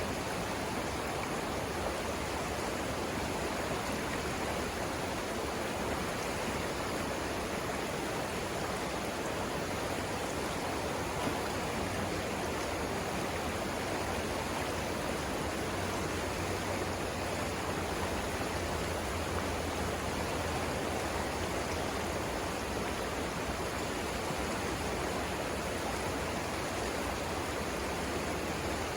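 River rapids: a steady rush of flowing water over rocks.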